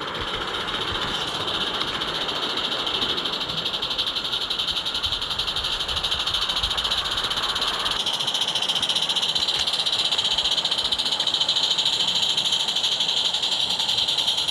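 Roundhouse Katie, a small live-steam garden-railway locomotive, running with a fast, steady hiss of steam exhaust. About eight seconds in the low rumble drops away and the hiss grows louder.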